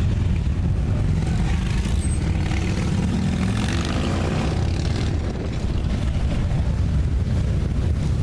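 Many motorcycle engines rumbling as a parade of bikes rides past, with one passing closer and louder about three to four seconds in.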